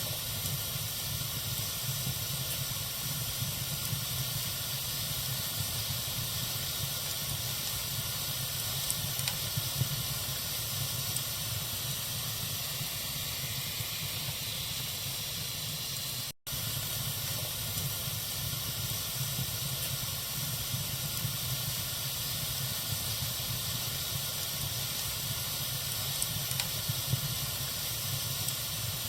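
Bonfire burning with a steady hiss and faint small crackles, broken by a brief silent gap about sixteen seconds in.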